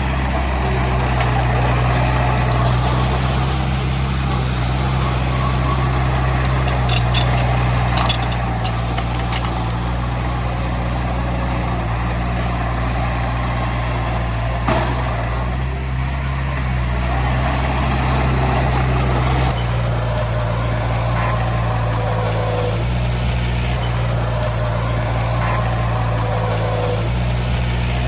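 Heavy diesel engine of earthmoving machinery running steadily, with a low hum. Its engine note shifts a little past the middle, and a few sharp clicks or knocks come about seven to nine seconds in and again near fifteen seconds.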